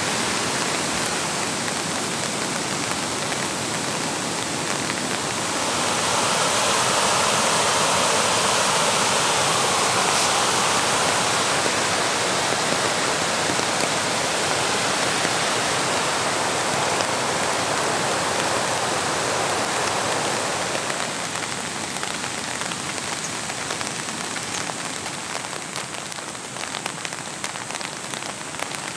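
Steady rain falling, joined from about six seconds in by the louder, fuller rush of a fast, rocky river, which fades again about twenty-one seconds in. Near the end, close raindrops tap sharply.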